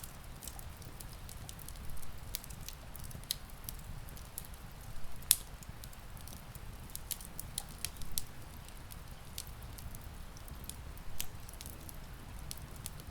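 Wood fire crackling with irregular sharp pops, one much louder about five seconds in, over a steady low rumble of rain.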